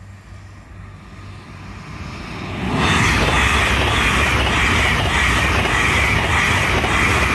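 LNER Azuma high-speed train approaching, growing louder over the first three seconds, then passing close at speed with a loud, steady rush of wheels on rail and wind along the coaches.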